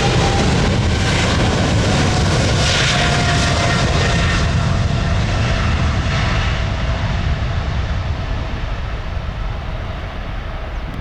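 Boeing 777-300ER's twin GE90-115B turbofans at takeoff power as the jet climbs away: a loud jet noise with a deep rumble and a steady engine tone that dips slightly in pitch a few seconds in. Over the second half the sound slowly fades and loses its high end as the aircraft moves off.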